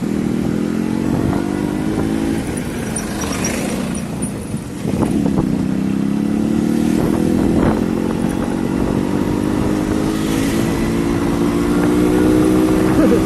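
Yamaha RX100 two-stroke single-cylinder engine running while riding. The engine note falls over the first few seconds, dips briefly about five seconds in, then climbs steadily as the bike picks up speed.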